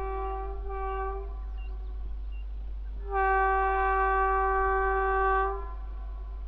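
Air horn of a WAG-9HC electric locomotive sounding two short blasts, then a longer, louder blast of about two and a half seconds.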